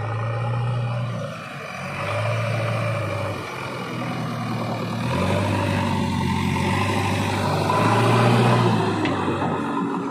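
JCB 3DX Xtra backhoe loader's diesel engine running under load while digging, its note rising and falling several times as the hydraulics work, loudest about eight seconds in.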